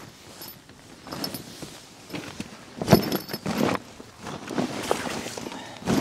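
Footsteps on ice-covered ground with irregular knocks and clinks, the loudest about three seconds in and again near the end.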